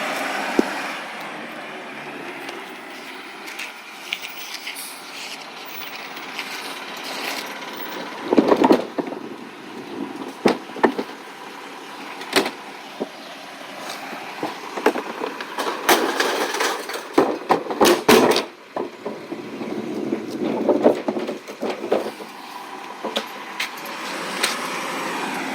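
Irregular knocks and clatters, a few of them loud, over a steady background noise.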